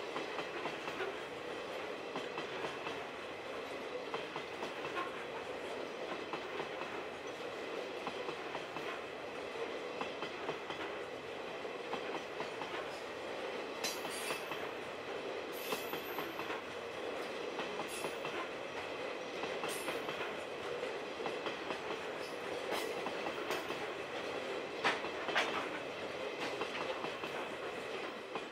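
Grain hopper wagons rolling past, wheels clacking over the rail joints with a steady whine under the running noise. There are sharper clacks every couple of seconds around the middle.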